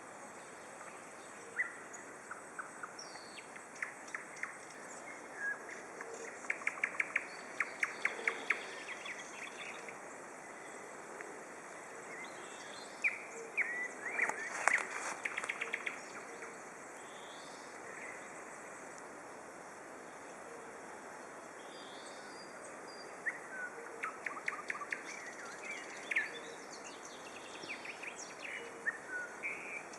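Nightingale singing in bursts of fast repeated notes and whistles, loudest about a third and halfway in, and again near the end, while another bird repeats a short call every few seconds over a steady background hiss.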